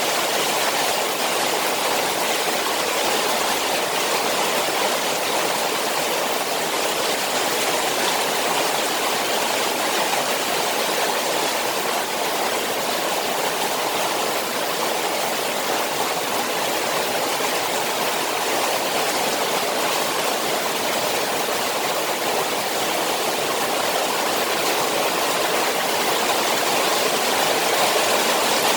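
Rain falling on a koi pond, heard as a steady, even rush of water.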